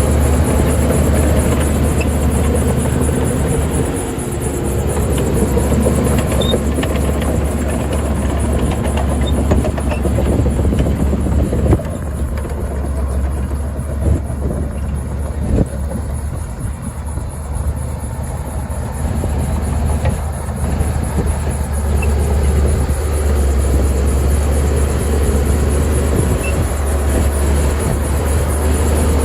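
Heavy diesel earth-moving machinery running with a deep steady drone, easing a little in the middle, and a couple of sharp metallic knocks about 12 and 16 seconds in.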